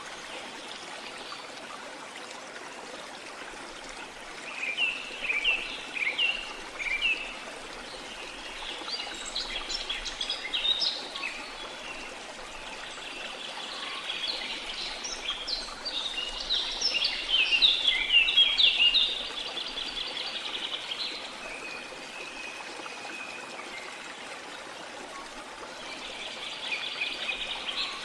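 Small songbirds chirping and singing in repeated short phrases over a steady rush of water, busiest and loudest a little past the middle.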